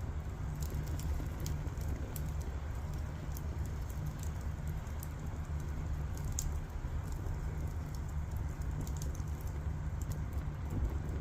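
Firewood burning with a steady low rumble and hiss of flame, broken by frequent small, irregular crackles and pops.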